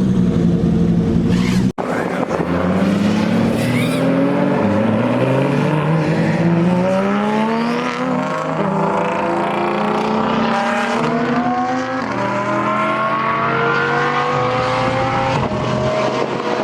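Supercar engines revving and accelerating hard, the engine note climbing in pitch again and again as the cars pull away. There is an abrupt cut about two seconds in.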